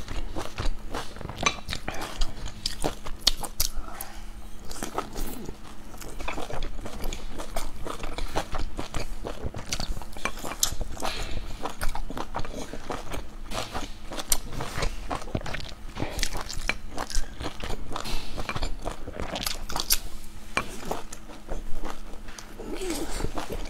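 Close-miked chewing and biting of soft steamed dumplings, a dense run of quick mouth clicks and smacks.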